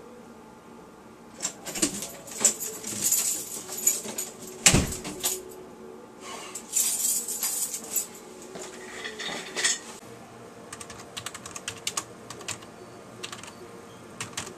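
Scattered clattering and knocking of handled objects, the loudest a single thud about five seconds in. For the last few seconds, rapid typing on a computer keyboard.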